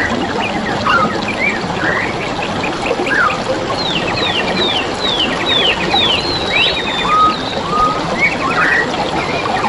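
Several forest birds calling and singing over a steady babbling stream: a run of quick falling whistles about two a second from about 4 to 6.5 s, with fast trills and short rising notes around it.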